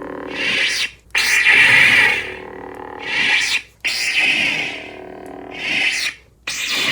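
Lightsaber sound font from a saber's full-bass speaker: a steady electric hum with swelling swing sounds that rise and fall again and again. The sound drops out sharply for a moment three times.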